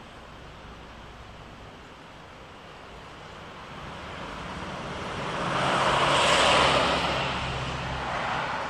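A motor vehicle passing by: its noise swells to a peak about six and a half seconds in and then fades, over a steady low engine hum.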